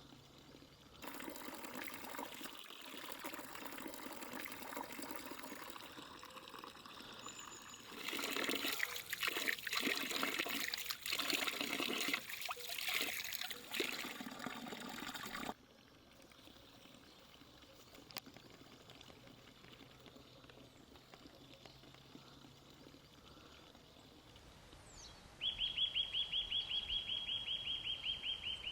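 Spring water trickling and pouring, louder about midway, then cutting off suddenly. Near the end a bird gives a fast, even, high-pitched trill.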